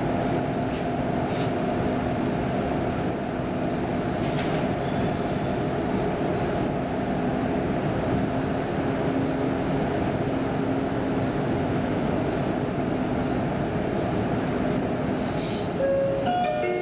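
X10 electric commuter train running, a steady rumble with a constant hum and faint ticks over it. Near the end a brief two-note tone sounds.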